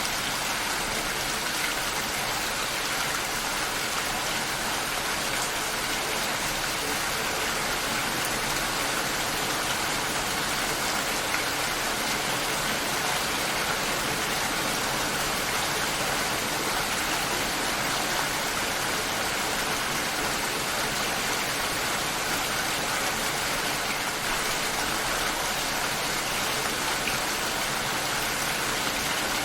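Steady rain shower falling, an even hiss of rain with raindrops on surfaces, unchanging throughout.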